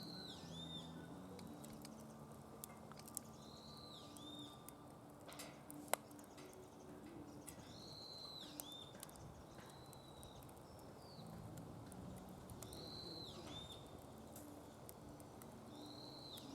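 Wood fire burning in a fire pit, with a few sharp crackles, the loudest about six seconds in. A bird repeats a short high call about every four seconds.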